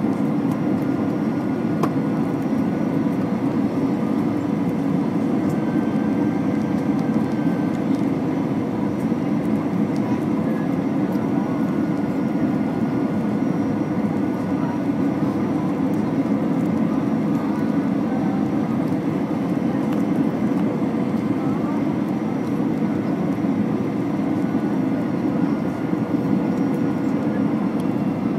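Steady cabin noise inside an Airbus A320 airliner on its approach to landing: a low, even rush of airflow and engine drone, with a few faint steady whining tones over it.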